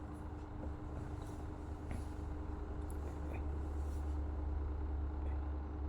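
Steady low background rumble with a faint constant hum and a few small ticks.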